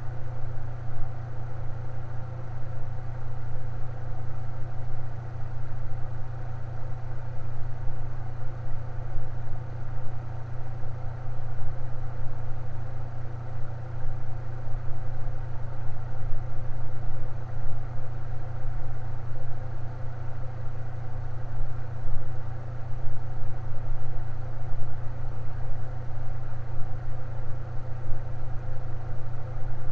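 Electric fan running steadily: a constant low motor hum with fainter steady tones above it.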